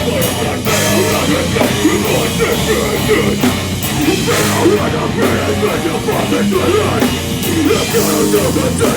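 A live punk/heavy rock band playing loudly: distorted guitars, bass and a drum kit with crashing cymbals.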